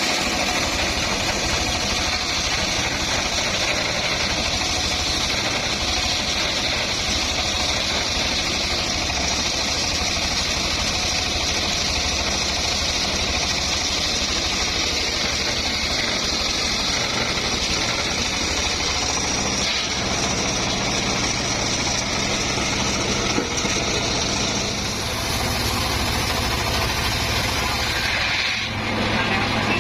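Engine running steadily at a constant speed, with a brief dip and change in its sound near the end.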